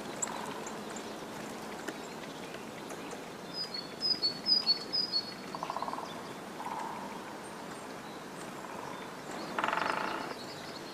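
Forest ambience with a small bird giving a quick series of short, high chirps about four seconds in. A few brief, low, buzzy calls sound after it, the last and longest near the end.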